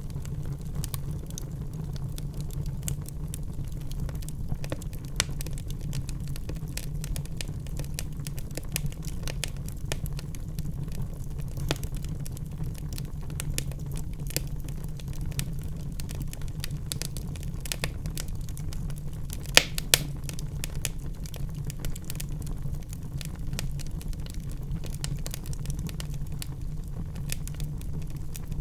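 Wood fire in a fireplace crackling: many small irregular crackles over a steady low rumble, with two sharper pops close together about twenty seconds in.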